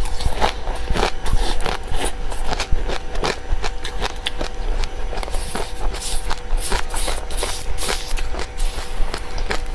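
Close-up crunching and chewing of dry seeds: a quick, irregular run of crisp cracks and crackles, several a second. A faint steady hum runs underneath.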